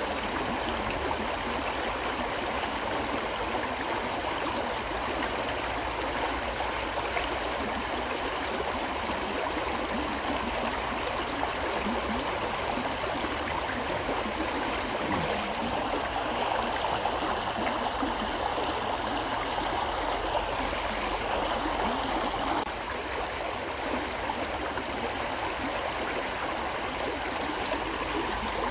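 A river flowing: a steady rush of water, dropping a little in level about four-fifths of the way through.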